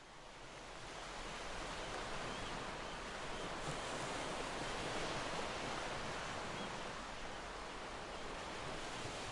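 Steady outdoor ambience of wind and sea water, fading in over the first couple of seconds.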